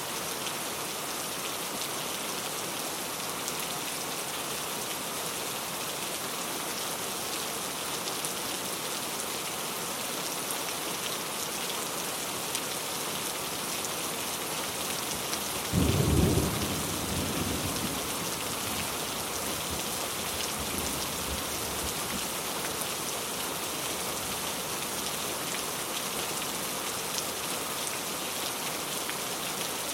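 Steady heavy rain falling on surfaces, with a single sudden low crack of thunder about halfway through that rumbles off over a couple of seconds.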